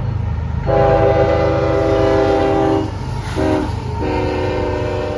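Raised-letter Nathan K5HLB five-chime air horn on a CSX freight locomotive sounding a long blast, a short one, then another long blast starting about four seconds in: the grade-crossing signal. The low rumble of the passing train runs underneath.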